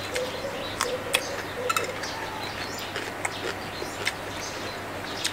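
Chewing of crispy fried salmon, heard as scattered sharp crunches and mouth clicks, with faint bird chirps in the background.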